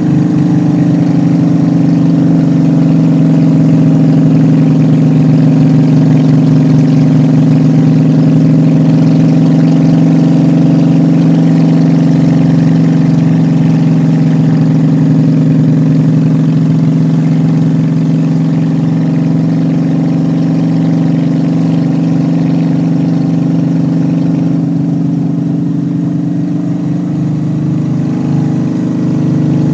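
Honda Shadow motorcycle's V-twin engine running steadily at cruising speed under way. The engine note eases off briefly about twenty-five seconds in, then picks up again.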